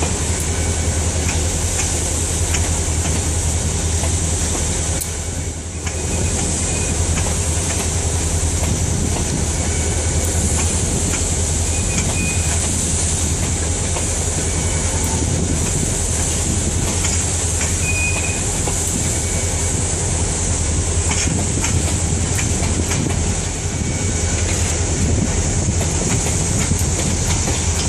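Freight wagons, covered hoppers and boxcars, rolling past close by: a steady rumble of steel wheels on rail with scattered clicks and a few short, high wheel squeals.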